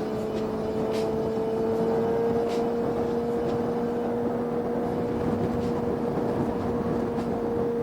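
Vehicle engine running at a steady cruising speed, its drone rising slowly in pitch, over rushing wind and road noise.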